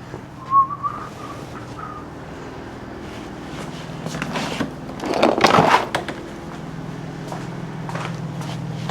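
Rummaging through stored items: a clatter and rustle of things being shifted and knocked about, loudest around five seconds in. Near the start there is a brief wavering high whistle.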